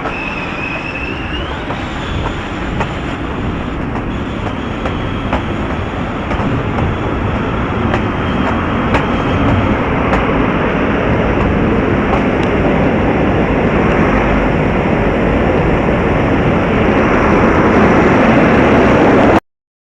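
Rail car in motion: dense running noise with scattered wheel clicks and a motor whine that rises in pitch near the start, then holds steady. It grows louder and cuts off suddenly near the end.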